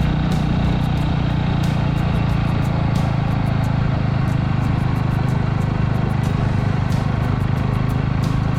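Yamaha Grass Tracker's single-cylinder engine running steadily at an even pitch, with occasional faint clicks above it.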